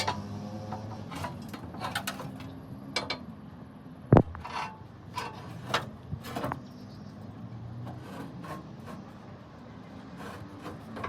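Workshop hand-tool work on metal: scattered knocks, clinks and scraping, with one heavy thump about four seconds in, over a steady low hum.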